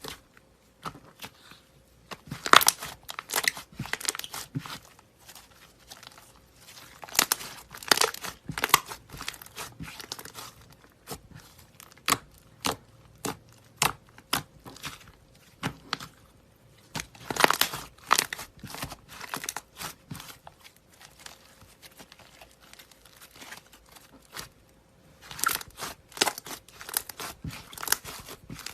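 Slime being squeezed and pressed by hand, giving bursts of sharp crackling clicks and pops in several clusters, the densest about two to four seconds in, around seventeen to eighteen seconds, and near the end.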